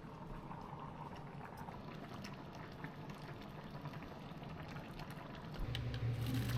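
Food cooking in a pan on a stove: a steady bubbling and sizzling with many small scattered pops. A low hum grows louder near the end.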